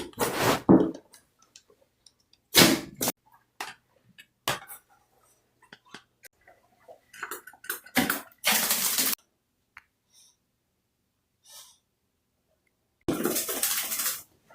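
Water splashing and spraying in a bathtub as a dog is bathed, in short bursts of a second or so with quiet gaps between; the longest burst comes near the end.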